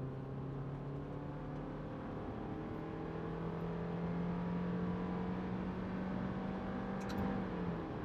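Subaru Outback 2.5i's 2.5-litre flat-four engine pulling under acceleration over steady road noise, its note rising slowly and evenly, then dropping back near the end.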